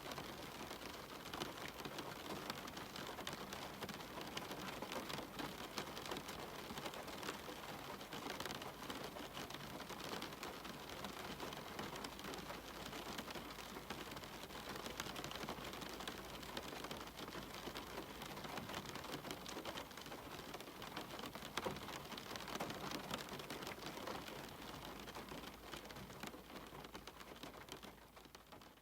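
Steady rain falling, a dense even pattering that fades out near the end.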